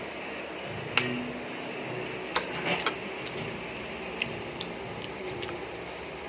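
Light clinks and clicks of cutlery and dishes at a meal. There is one sharp click about a second in, a little cluster of clinks about two and a half seconds in, and a few fainter ticks later, over steady room noise.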